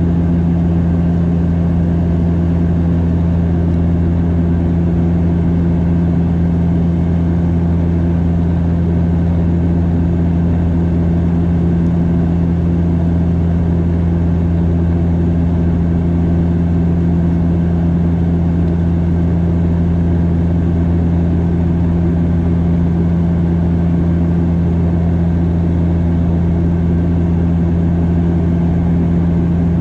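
Cabin drone of a Bombardier DHC8-Q400's turboprop engines and propellers in flight: a loud, steady, deep hum with a strong low throb and a humming tone above it, unchanging throughout.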